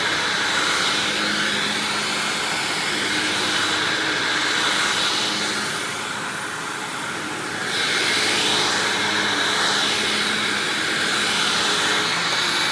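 Hoover WindTunnel Self-Propelled upright vacuum, fitted with an older Maytag-era WindTunnel motor, running steadily with a high whine. Its level dips about six seconds in and comes back up a little under two seconds later.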